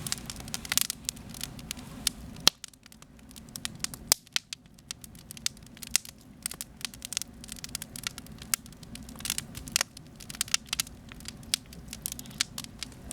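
Wood campfire crackling with frequent, irregular sharp pops, a loud pop about two and a half seconds in.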